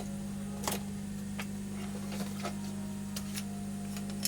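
Steady low electrical hum from the repair bench, with a few light clicks and taps of tools and a bottle being handled.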